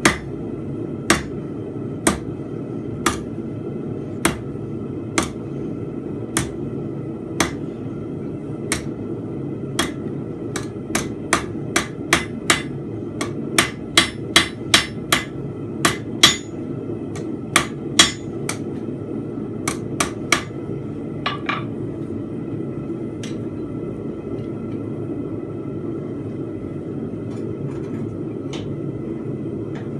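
Blacksmith's hammer striking a steel bar on an anvil while forging a fence peg. The blows come about once a second, then faster for about ten seconds, and stop about two-thirds of the way through. A steady hum runs underneath.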